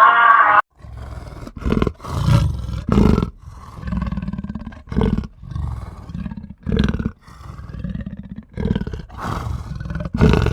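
An animal growling: a run of deep, rasping growls in short bursts, one after another.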